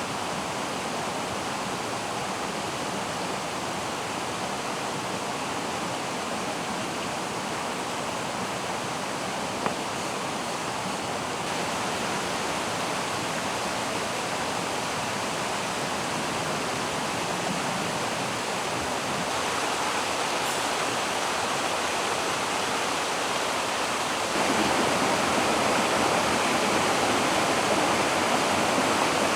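Mountain stream rushing steadily over rocks; it gets suddenly louder about 24 seconds in.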